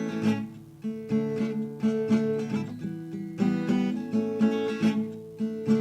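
Acoustic guitar strumming chords in a bouncing rhythm, an instrumental intro before any singing.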